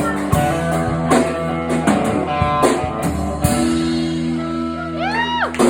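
Band playing rock music: guitar chords and drum kit, with high rising-and-falling gliding tones near the end.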